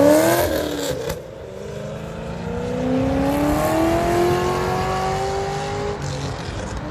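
Car accelerating hard as it pulls away: the engine note climbs, breaks off about a second in at a gear change, then climbs again more slowly for several seconds.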